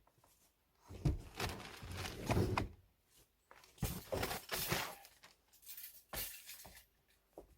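Irregular clattering and scraping, as of hard objects being handled and knocked together, in several separate bursts with short quiet gaps between them.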